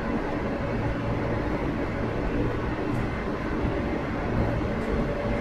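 Cabin running sound of a Sanriku Railway 36-700 series diesel railcar under way: a steady rumble of the wheels on the rail and the underfloor diesel engine. A faint steady whine fades in the middle and comes back near the end.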